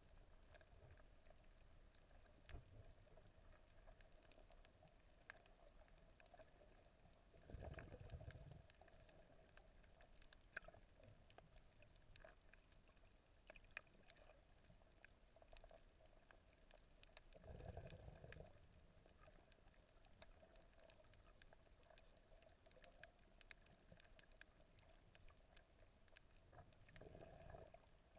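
Faint underwater sound through a camera's waterproof housing: a low hiss with scattered small clicks and crackles. About every ten seconds a low, muffled water surge of about a second rises over it.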